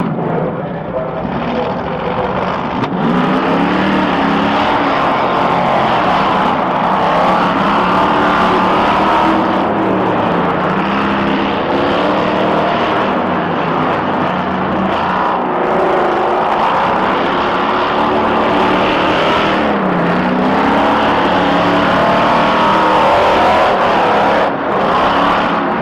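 Engines of the dual-engine BIGFOOT Fastrax tracked vehicle and a monster truck racing, loud throughout, revving up and falling back over and over as they accelerate and shift.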